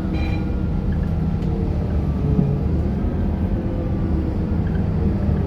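Scania K230UB city bus's five-cylinder diesel engine running under way: a steady low drone with a faint whine that slowly rises and falls in pitch.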